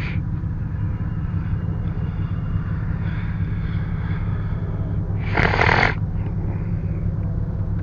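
Steady low engine drone and road noise inside a moving car's cabin, with a short loud rush of air about five seconds in.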